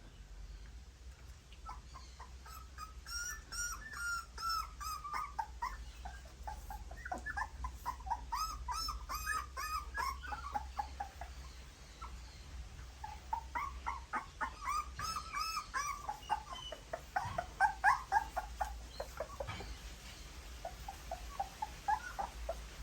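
Nursing puppies squeaking and whimpering while suckling: short, high-pitched cries in quick runs, with brief pauses between the runs.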